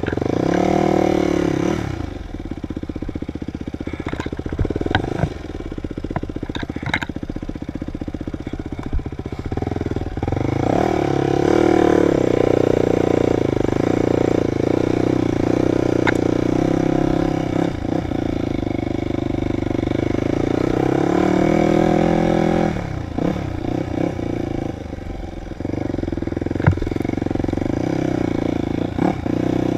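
Dirt bike engine revving and easing off over and over, its pitch rising and falling with the throttle, loudest and steadiest through the middle stretch. Sharp knocks and clatter are scattered throughout.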